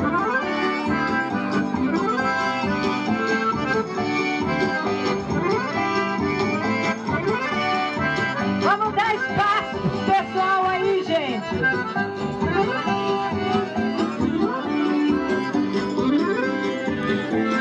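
Accordion-led music for a festa junina quadrilha dance, playing steadily.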